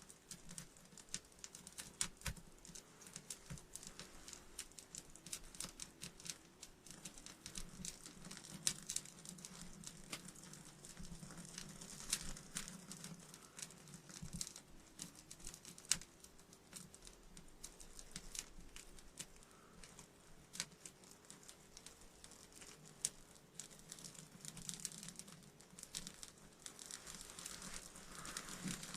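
Faint, scattered clicks, taps and rustles at irregular intervals, from fat wood kindling being handled and readied for the stove.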